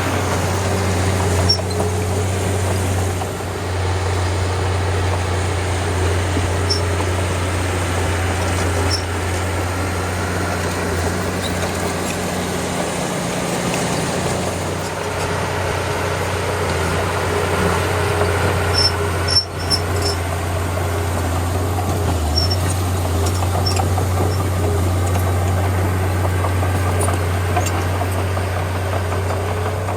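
Diesel engine of a small Komatsu D31P crawler bulldozer running steadily at work, a low drone that eases briefly about halfway through, with scattered faint high clicks and squeaks.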